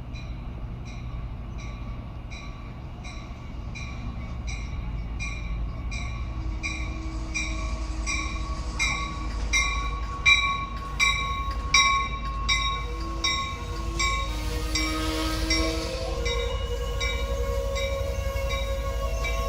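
A train rumbling past while a railroad bell rings steadily at about two strokes a second, growing louder towards the middle and then fading. Steady tones, like a horn, join in the latter part.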